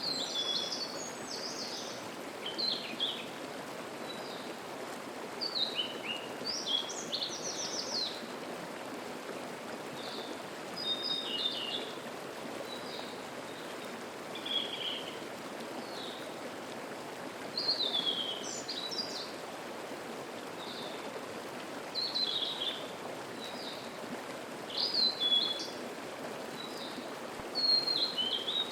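Mountain stream babbling steadily, with songbirds singing short, high phrases every two to three seconds.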